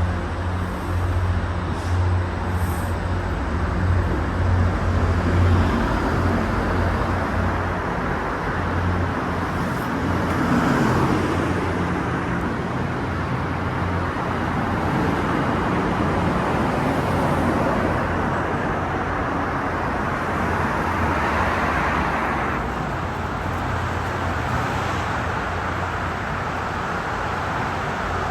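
Steady low engine hum under a wash of vehicle noise that swells and eases a couple of times.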